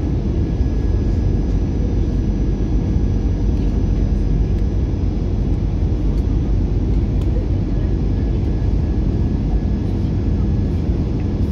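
Steady cabin noise of an Airbus A321-200 in flight: an even rush of engine and airflow noise with a deep rumble and a few faint steady tones.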